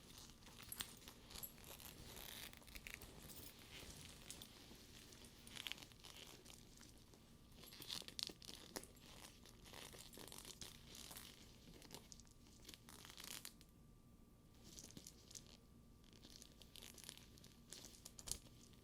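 Close-up hand handling of a sticky faux leather purse's straps and buckles: tacky leather rubbing and peeling away with soft, irregular crackles and scattered light clicks.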